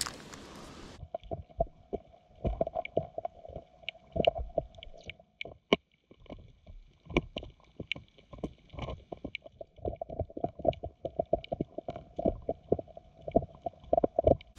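Spinning fishing reel being cranked to retrieve a crankbait: a steady gear hum under a run of quick clicks, stopping for a few seconds midway and then resuming.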